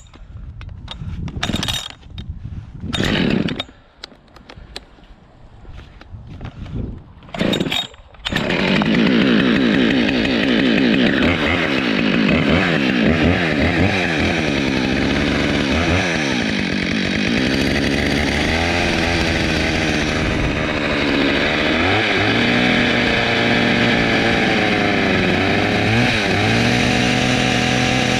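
A Husqvarna 572XP two-stroke chainsaw comes to full throttle suddenly about eight seconds in, after some scattered short knocks and rustles. It then runs cutting wood, its engine pitch repeatedly sagging under load and climbing back.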